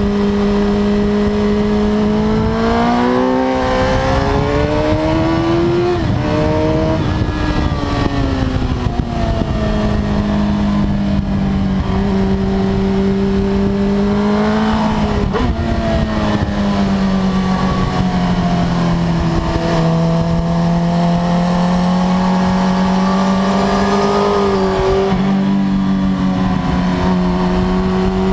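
Suzuki GSX-R1000 K5's inline-four engine running hard, heard onboard with wind rush, its pitch climbing and then dropping sharply twice, about six seconds in and again halfway through, as the rider works the throttle and gears. It then holds steady before rising and falling again near the end.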